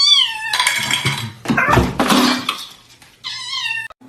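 A cat meows twice in high, arching calls, once at the start and again near the end, with two noisy clattering stretches in between.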